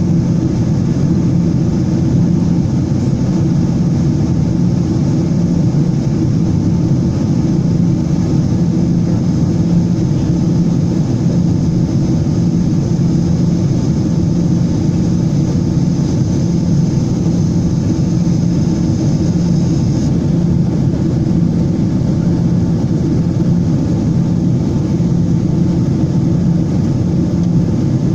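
Steady jet engine and airflow roar heard inside the cabin of an airliner climbing after takeoff. A deep hum sits under it. A faint high hiss stops about twenty seconds in.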